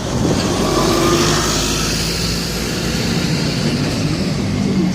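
Road traffic: a vehicle engine running, with a swelling rush of passing traffic that eases off after a couple of seconds.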